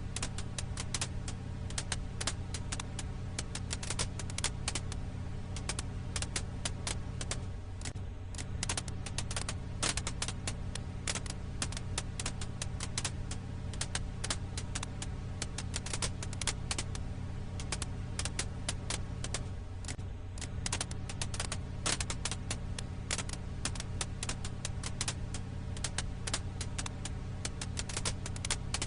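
Crackling firewood: dense, irregular pops and snaps over a steady low rumble.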